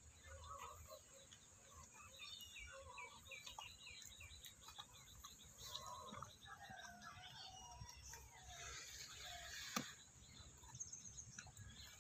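Faint birdsong: small birds chirping and whistling, with a quick run of repeated chirps a couple of seconds in. One sharp click near the end.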